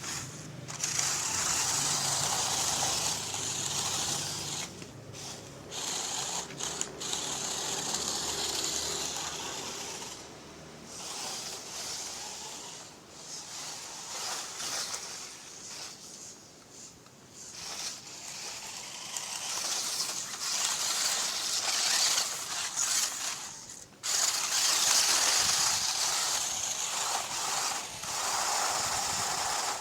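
RC rock crawler's tuned stock electric motor and geared drivetrain whirring as it drives. It grows louder and softer and stops briefly several times.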